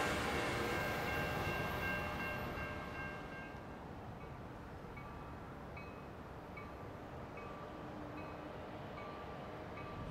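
Sounder commuter train receding, its rumble fading away over the first few seconds. Then a grade-crossing warning bell dings steadily, a bit faster than once a second.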